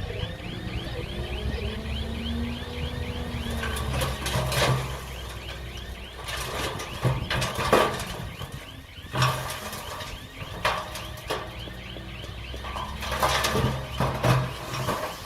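Komatsu D20P crawler bulldozer working: the diesel engine runs steadily under a fast, repeating high squeak, with several sharp metal clanks from the tracks and blade.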